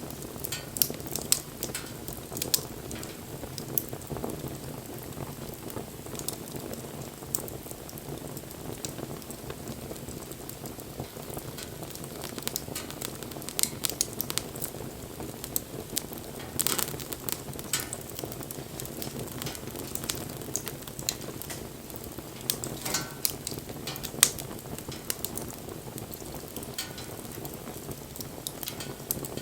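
Wood fire burning with a steady low rush and frequent irregular crackles and pops, a few of them sharper and louder.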